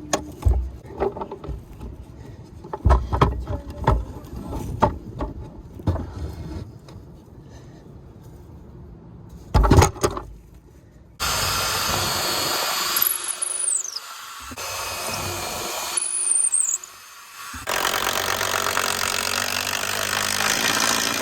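A series of knocks and clatter from hands-on work. About halfway through, a machine starts running steadily in several stretches that start and stop abruptly, and twice a high squeal falls in pitch.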